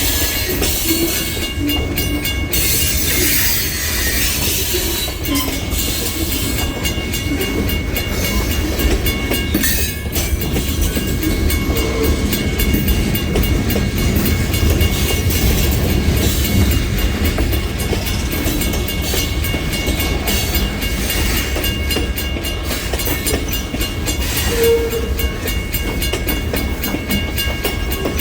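A freight train rolling past on the rails: a steady, loud rumble of wheels on track with a clickety-clack.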